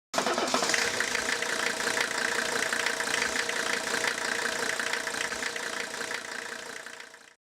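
An engine running steadily, starting abruptly and fading out near the end.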